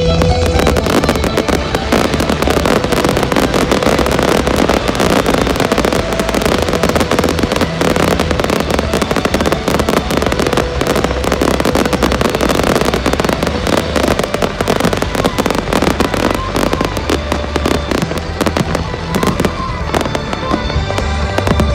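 Fireworks going off in a dense, rapid barrage of crackles and bangs, with music playing underneath.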